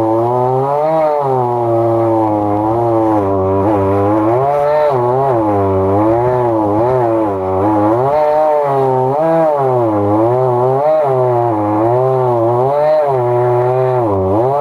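Chainsaw under load, ripping lengthwise through a log in a chainsaw mill. The engine runs continuously, its pitch repeatedly dipping and recovering about once a second as the cut loads it.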